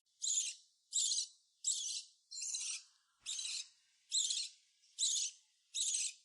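Sixteen-day-old hand-reared lovebird chick giving repeated high, rasping begging calls, about nine of them evenly spaced, roughly one every 0.7 seconds. It keeps asking for food even after a full feed.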